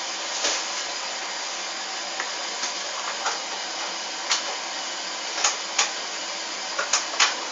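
Hoover washing machine running during a towel wash: a steady whir with irregular light clicks and knocks every second or so.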